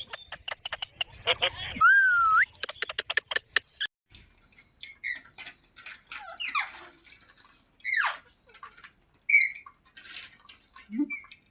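A ringneck parrot calling: sharp squawks that fall steeply in pitch about six and eight seconds in, with short chirps around them. A rapid run of clicks and a whistled pitch glide fill the first few seconds.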